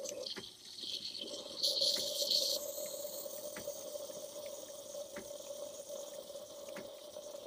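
Bosch Tassimo T45 pod coffee machine brewing: its pump hums steadily while hot liquid hisses and trickles out into the cup. The hiss grows louder for about a second, roughly two seconds in.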